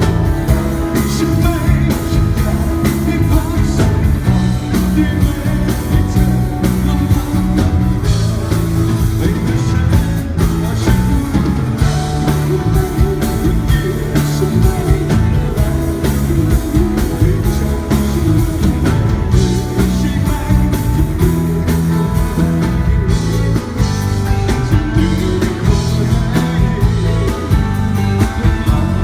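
Pop-rock band music with a singer over guitar and drums, loud and continuous: a live performance.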